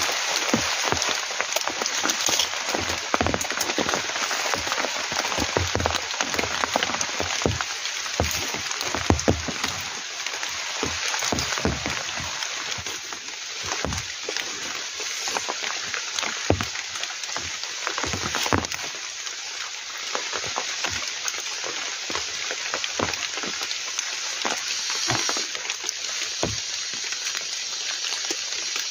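Heavy rain drumming on a tent, a steady hiss with many irregular heavier drops landing close by.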